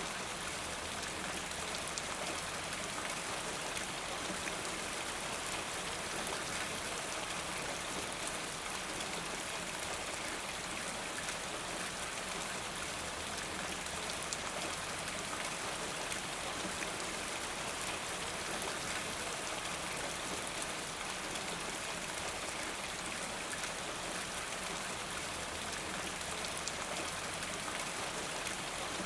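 Steady rain falling: an even hiss with small individual drop ticks scattered through it.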